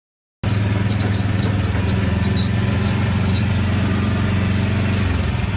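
The newly installed engine of a homemade snow plow running steadily. It cuts in abruptly just after the start and cuts off abruptly at the end, with a slight change in its low note about five seconds in.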